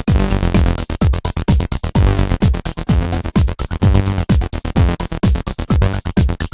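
Two Behringer TD-3-MO bass synthesizers playing a sequenced bass line in unison, unprocessed, over a steady kick-drum beat and fast percussion from a Roland JD-Xi synthesizer.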